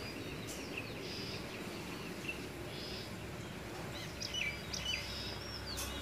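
Small garden birds chirping and whistling in short, scattered calls, busiest about four seconds in, over a steady outdoor background hum.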